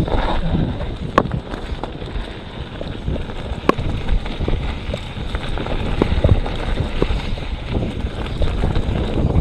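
Mountain bike descending a rough forest trail: wind buffeting the microphone and tyres rumbling over dirt, with sharp knocks as the bike clatters over roots and rocks, the clearest about a second in and near four seconds.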